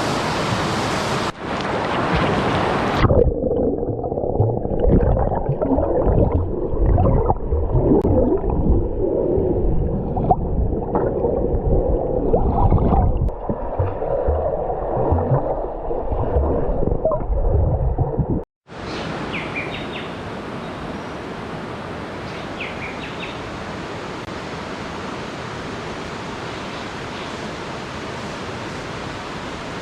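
Rushing water of a waterfall, a steady hiss, broken by a long muffled stretch of uneven low rumbling and gurgling. After an abrupt cut the steady rushing returns, with a few faint short chirps over it.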